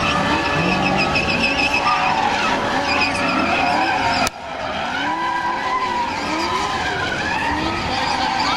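Holden drift car sliding, its tyres squealing while the engine revs rise and fall again and again. About four seconds in the sound breaks off sharply for a moment, then picks up again.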